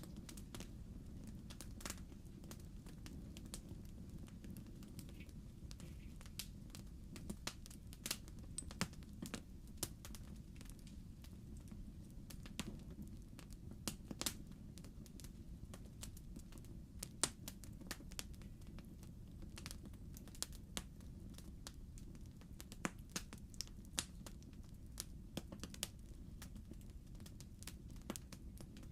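Wood fire crackling in a fireplace: irregular sharp pops and snaps, scattered throughout, over a low steady rumble.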